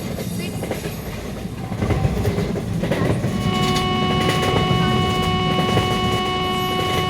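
A train passing at speed: a loud rumble with the clatter of wheels over rail joints, growing louder about two seconds in. About three and a half seconds in, a locomotive horn sounds one long, steady blast that holds on through the end.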